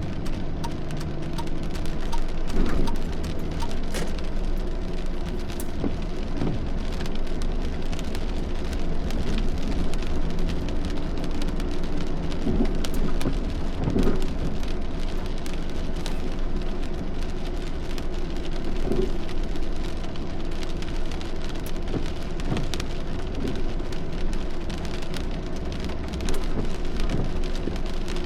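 Steady rain during a thunderstorm, with many sharp drop impacts on a hard surface and a steady low rumble underneath.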